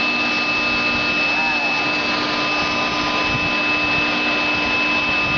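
Scrap-copper melting furnace running with a steady, loud noise and a constant hum of several held tones. Faint voices are heard under it.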